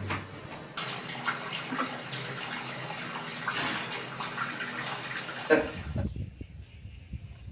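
Steady rush of running water, starting about a second in and cutting off abruptly about six seconds in, followed by low rumbling bumps.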